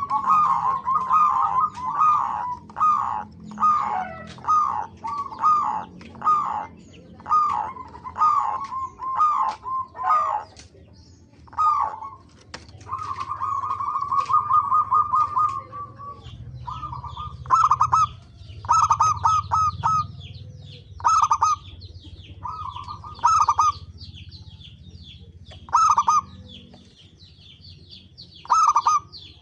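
Zebra doves (perkutut) cooing: quick, stuttering rolled coos in short phrases repeated about twice a second at first. Around the middle comes one longer rolling run of about three seconds, and the rest are separate bursts a second or more apart, with fainter high chirps behind them in the second half.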